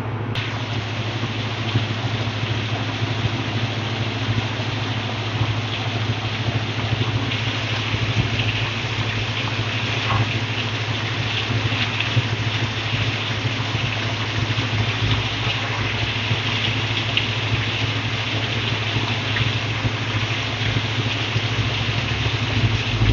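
Seekh kababs sizzling and crackling steadily as they shallow-fry in hot oil in a frying pan, over a steady low hum.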